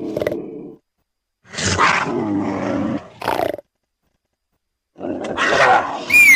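Wild-cat calls from lynx, bobcat and cougar recordings, mixed into a creature voice: separate calls with silences between, the last ending in a high cry that falls in pitch.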